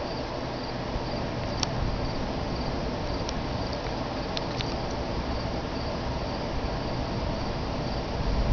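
Steady rain with crickets chirping through it and a few sharp drop ticks. Low thunder starts to rumble at the very end.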